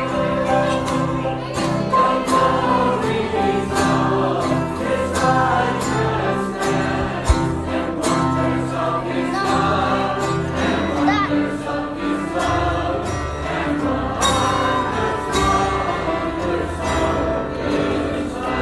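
A choir of many voices singing a Christmas carol together over instrumental accompaniment, with sustained sung notes and a steady beat.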